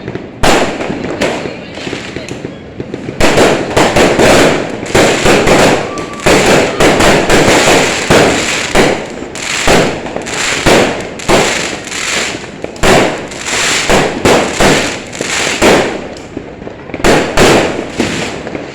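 Fireworks going off in a rapid barrage of bangs and crackles. The bangs are sparse at first, turn dense and loud about three seconds in and keep going for some thirteen seconds, then pause briefly before a last cluster near the end.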